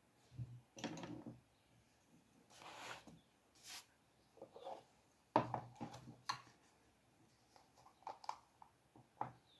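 Scattered light taps, knocks and short scratchy rustles of drawing tools and paper being handled at a desk, the loudest knock about five and a half seconds in.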